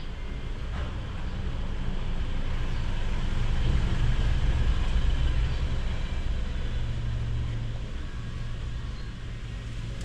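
Nissan NV350's diesel engine running with a low, steady drone that grows louder around the middle and then eases off.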